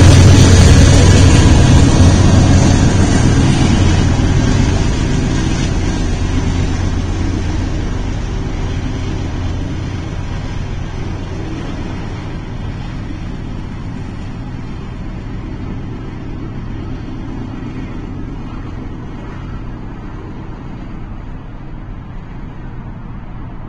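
BNSF freight train rolling past with a low rumble and hum, fading steadily as it moves away.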